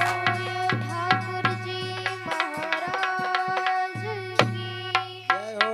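Instrumental devotional music: tabla strokes over a steady held drone and sustained melody notes, with a few pitch-bending strokes near the end.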